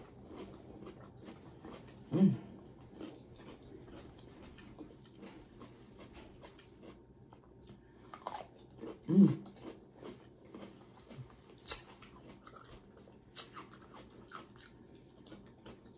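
Close mouth sounds of a person chewing and biting food: soft wet smacks and small clicks. Twice, about two seconds in and about nine seconds in, a brief louder voice sound from the eater.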